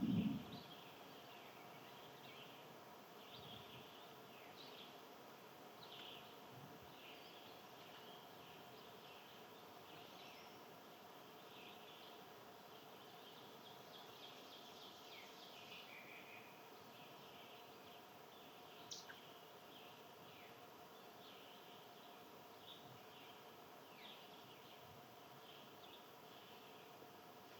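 Faint outdoor birdsong: many short chirps and twitters from several small birds, over a faint steady hum, with a brief low thump right at the start.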